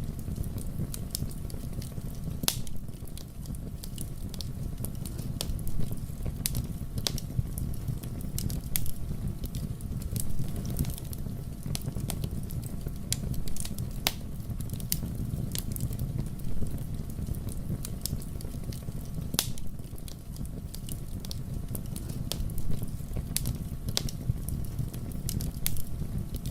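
Fire burning in a fireplace: a steady low rumble of flames with irregular crackles and a few louder sharp pops.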